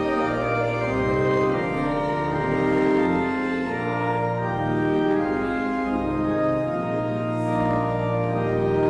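Organ playing a hymn in slow, held chords that change every second or so.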